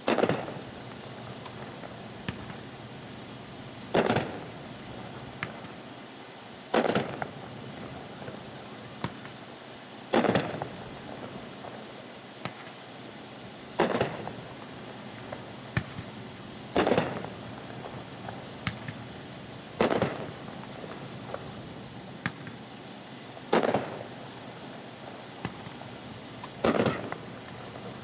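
A 36-shot 500-gram consumer fireworks cake firing: a loud report about every three seconds, nine in all, each trailing off briefly, with smaller pops between them, over a steady rush of wind noise.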